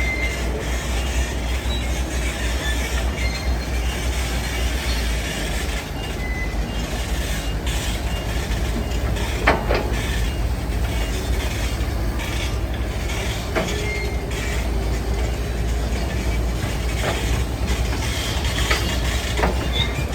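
Heavy earthmoving machinery running: a steady diesel engine rumble with short metallic squeals and a few sharp clanks, typical of steel tracks and moving parts.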